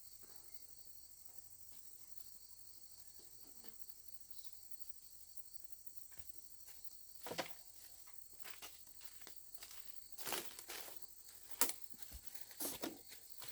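A steady high-pitched insect chorus, with scattered rustles and light clicks or steps starting about seven seconds in.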